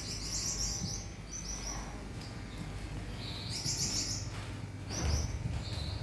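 Small birds twittering: several short phrases of rapid, very high-pitched chirps, with a steady low hum underneath.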